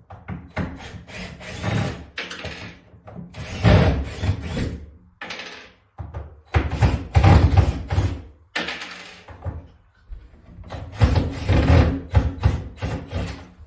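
Wood knocking and scraping in irregular bursts, like wooden units or furniture being pulled about and dragged.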